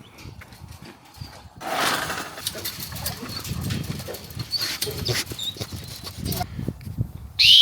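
Rustling and irregular footfalls moving through field cover. Near the end a loud, steady blast on a dog training whistle begins, a recall signal to the dog.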